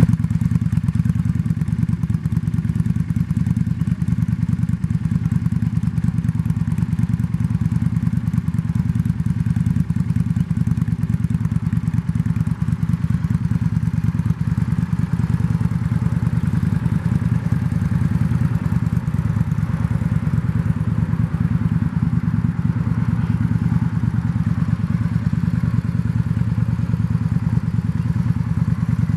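2000 Yamaha V-Star 650's air-cooled V-twin idling steadily through a Vance & Hines aftermarket exhaust, with a deep, even exhaust note.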